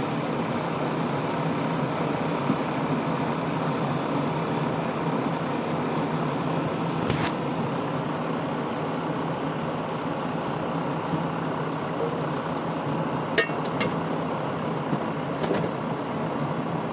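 Room air cooler's fan running steadily, a continuous rushing of air over a low motor hum. A few sharp clicks sound over it, the loudest about thirteen seconds in.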